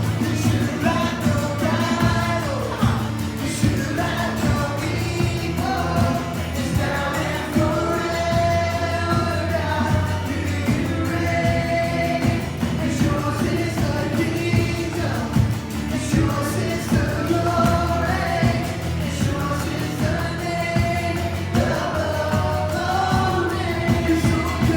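Music: a Christian worship song, with voices singing over instrumental backing.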